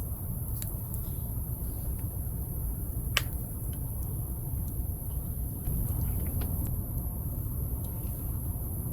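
Wood fire crackling: scattered sharp pops, the loudest about three seconds in, over a steady low rumble.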